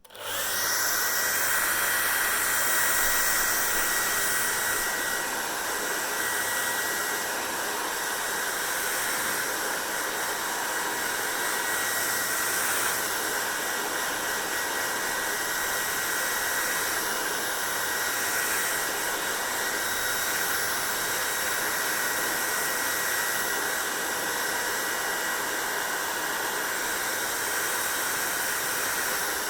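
Hair dryer switched on at the start and then running steadily: a constant rush of blown air with a thin steady whine over it, a little louder for the first few seconds before it settles.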